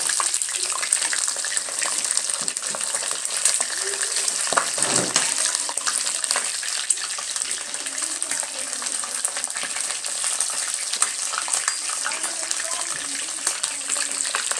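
Pieces of kienyeji (free-range) chicken deep-frying in hot oil: a steady sizzle thick with crackles and pops, partway through cooking the first side.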